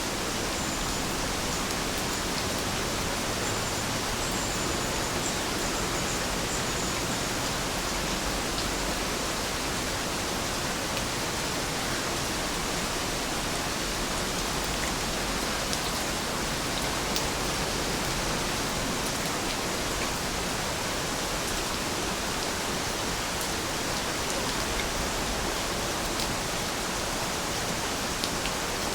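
Steady rain falling, a dense even hiss with a few faint drop ticks.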